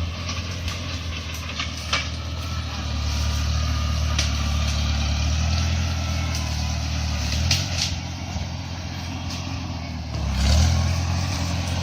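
Small tractor engine running steadily, with scattered clanks and knocks. The engine note shifts about two thirds of the way through and swells briefly near the end.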